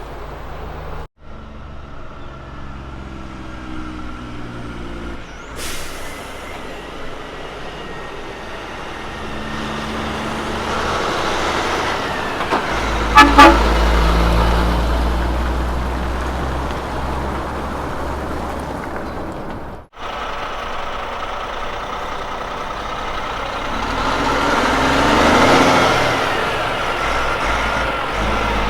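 Road trains' diesel prime movers driving past, their engines pulling through the gears. About halfway through, two short blasts on a truck's horn as one passes close with a heavy low rumble, and near the end another truck swells up loudly and fades as it goes by.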